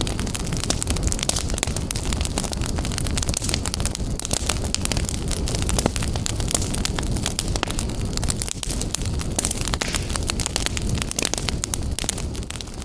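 Fire burning in a fireplace, crackling with many small irregular pops over a steady low rumble of flames.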